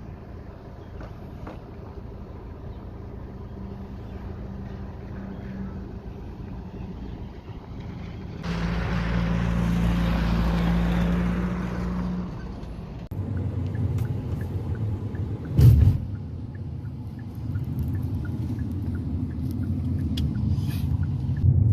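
A car running, with a steady engine hum and road noise. A louder rushing stretch comes about a third of the way in, and a single knock about three-quarters through.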